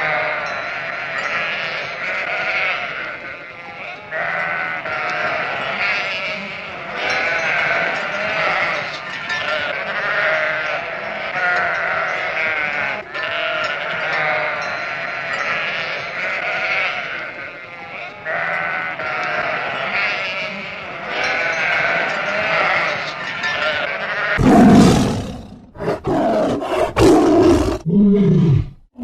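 A flock of sheep bleating continuously, many wavering overlapping calls. Near the end louder, rougher animal calls with falling pitch take over.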